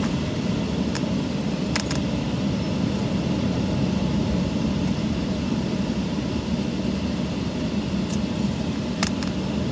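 Automatic car wash machinery running, heard from inside the car: a steady low rumble with a few sharp knocks about a second in, near two seconds and about nine seconds in.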